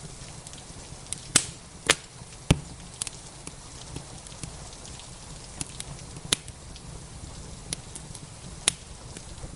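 Wood fire crackling in a fireplace, with scattered sharp pops, three close together early and two more later on, over a steady hiss of rain.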